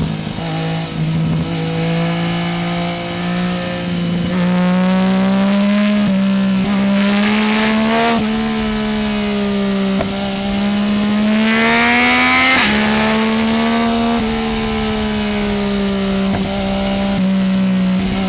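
2020 Yamaha Tracer 900 GT's inline-three engine through a full Roads Italia exhaust with no dB killer, pulling on the road: the revs climb and fall with several abrupt gear changes, and twice a harder pull brings a rush of hiss.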